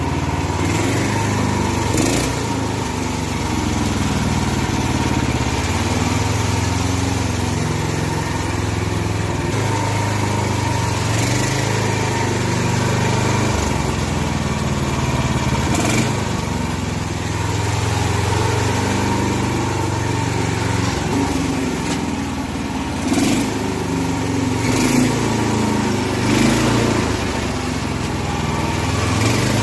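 Lawn mower's small engine running continuously, its pitch stepping up and down a few times, with a few short sharp clicks or knocks over it.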